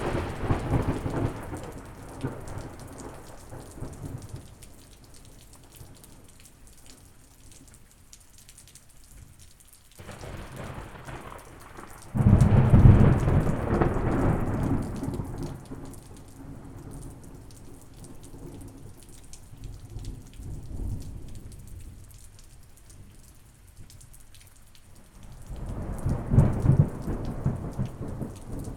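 Rolling thunder in a thunderstorm: several long, low peals, each swelling and dying away over a few seconds. The loudest comes about twelve seconds in, with further peals near the start and near the end. Steady rain hisses underneath.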